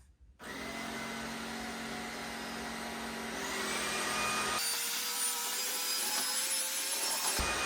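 Tineco S10 cordless stick vacuum switching on about half a second in, its motor running with a steady whine. A few seconds in, the whine rises in pitch as the motor speeds up to its max power setting.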